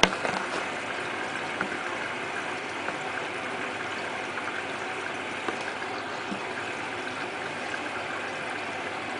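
Hotpoint Ultima WT960 washing machine filling with water at the start of its wash programme: a steady rush of water into the drum. A single click comes right at the start.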